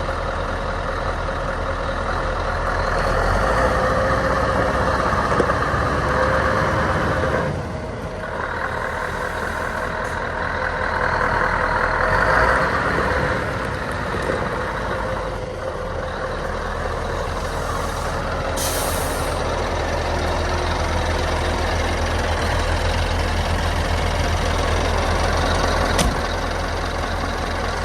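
Scania R560 truck's V8 diesel engine running, swelling louder twice in the first half with a short drop in between. About two-thirds of the way through there is a short hiss of air, and near the end a single sharp click.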